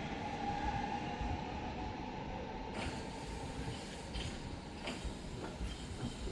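A train running through the station: a steady rail rumble with a faint whine that fades about three seconds in, followed by a few sharp clicks.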